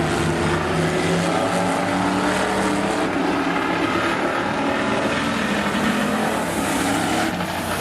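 Engines of several demo cars racing around an oval track: a loud, steady mix of overlapping engine notes, with pitches shifting slightly as the cars run.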